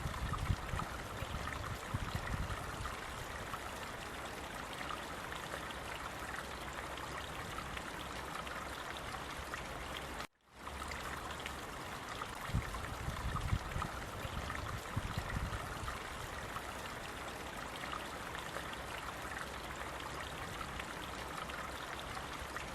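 Running water flowing steadily, like a stream, with low rumbling swells near the start and again a couple of seconds after the break. The sound cuts out abruptly for a split second about ten seconds in, then resumes.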